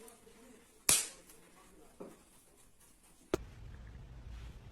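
A sharp click about a second in, a fainter knock about a second later, and another sharp click near three and a half seconds, over faint room tone.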